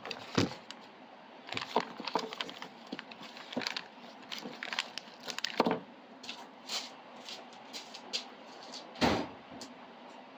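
Irregular clicks, taps and knocks of small parts being handled while fitting a cover and screw onto a 3D printer, with a louder knock about nine seconds in.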